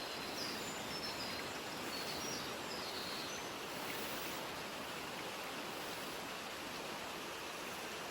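Mountain outdoor ambience: a steady, even rushing sound, with small birds chirping faintly and briefly during the first three seconds or so.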